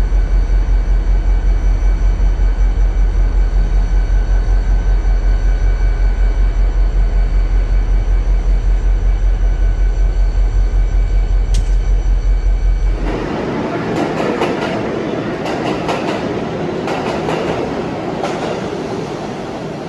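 A locomotive running with a loud, steady, low pulsing throb. About thirteen seconds in, this gives way to the rumble and rattle of a train rolling along the rails, with clicks of wheels over the rail joints.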